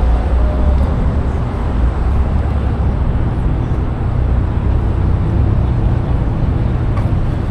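Steady low rumble of idling car engines at a busy car meet, with a continuous din of background noise.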